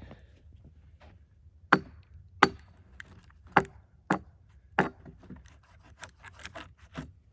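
Heavy tool blows on a cedar log being split for rails: five loud, sharp strikes in about three seconds, then a string of lighter knocks.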